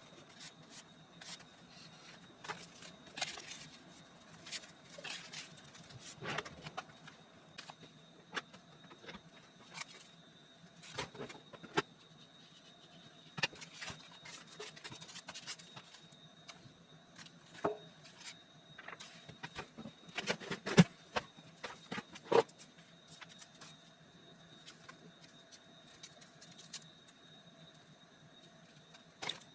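Irregular clicks, taps and rustles of hands working with paper and craft supplies on a work surface, with a cluster of sharper knocks about two-thirds of the way through. A faint steady high tone sits beneath.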